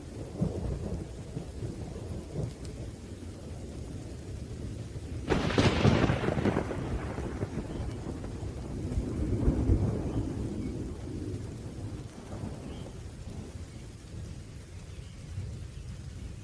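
Thunderstorm with steady rain and low rolling thunder. A sudden sharp thunderclap comes about five seconds in and dies away into rumble, and another swell of rumbling thunder follows a few seconds later.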